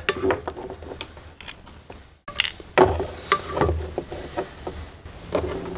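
Light clicks and knocks of small metal parts and test-light clips being handled on a workbench, with a brief dropout about two seconds in.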